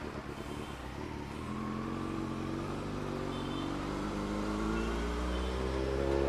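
Kawasaki Z900's inline-four engine pulling away at low speed, its pitch climbing steadily from about a second and a half in and getting louder toward the end.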